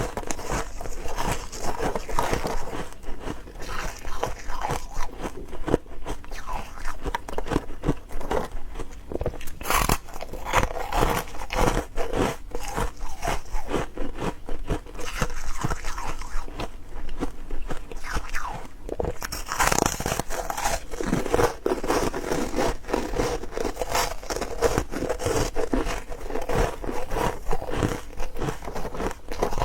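Close-up crunching of ice being bitten and chewed, many irregular sharp cracks and grinding crunches in quick succession.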